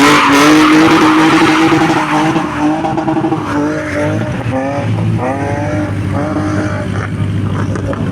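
Rally car launching from the start: the engine revs up sharply and is held high while the tyres scrabble for grip, then it shifts up through several gears in quick succession as it pulls away and fades.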